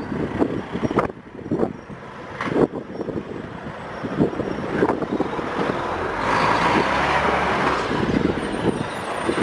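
Outdoor road traffic, with a vehicle passing that swells and fades over a couple of seconds near the end, against a scatter of short knocks.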